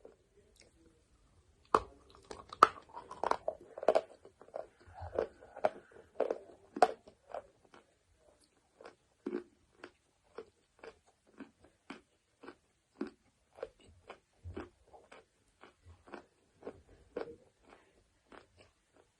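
Biting into chalk with a sharp crunch about two seconds in, then crunching it for several seconds, then softer, regular chewing clicks about two a second.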